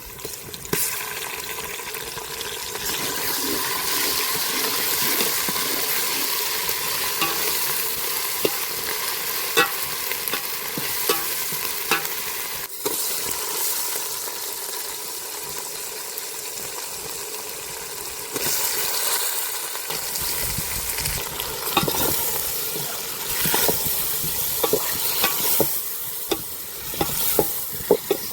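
Chicken livers and gizzards frying in a pan, sizzling steadily, with a spatula stirring and scraping in frequent short clicks.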